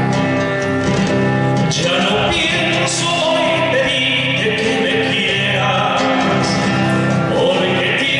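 Argentine folk song: acoustic guitar accompaniment, with a voice singing from about two seconds in.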